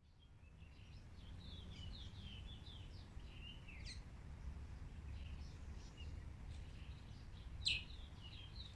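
Outdoor ambience fading in: many small birds chirping in quick down-slurred notes, with a couple of louder, sharp down-slurred calls about four seconds in and near the end, over a low steady rumble.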